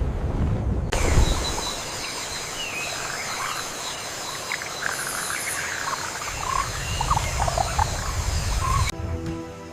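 Jungle ambience: birds calling with many short chirps and whistles over a steady hiss and high, even tones. It cuts in abruptly about a second in and cuts out near the end.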